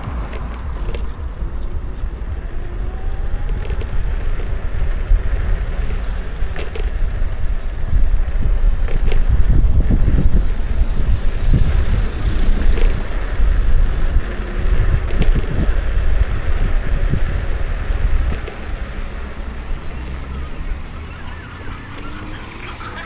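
Riding noise from a Kukirin G2 electric scooter: heavy wind buffeting on the camera microphone over tyre and road rumble, with a few sharp clicks and rattles. The rumble grows loudest in the middle and eases near the end.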